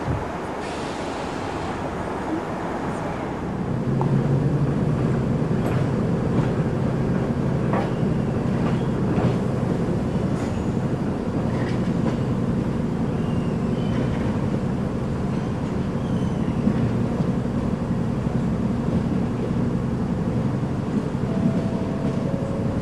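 London Underground Track Recording Train, its 1960 Stock motor cars running out along the line, a steady low motor hum swelling about four seconds in, with scattered clicks of wheels over rail joints.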